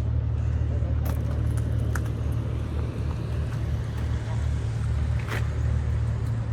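Steady low rumble of an idling car engine, with a few faint ticks over it.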